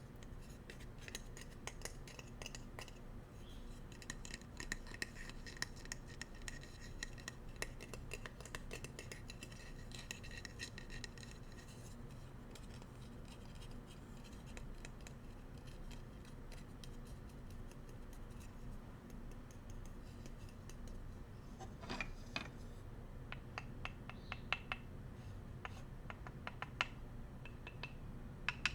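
Bamboo cooking utensils handled as ASMR triggers: a close, rapid run of small clicks, scratches and light clacks. It thins out in the middle, then sharper separate taps come in about two-thirds of the way through.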